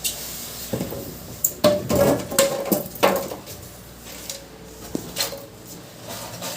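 A run of sharp clinks and knocks of hard objects being handled, several close together in the first half, with a single one later.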